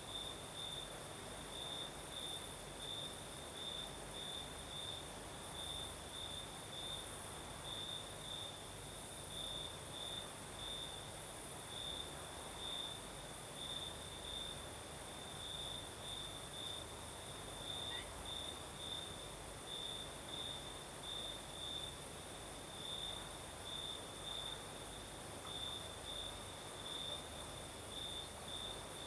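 Crickets singing at night: one cricket gives even, high chirps about three a second over a second, higher continuous trill. A soft steady hiss of breeze lies beneath.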